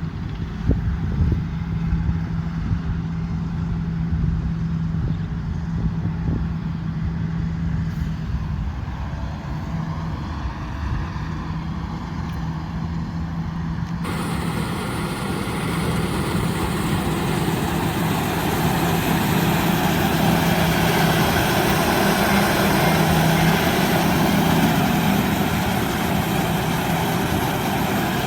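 Combine harvester's diesel engine running steadily under load, a constant hum with low rumble. About halfway through the sound switches abruptly to a brighter, louder machine noise that builds toward the end.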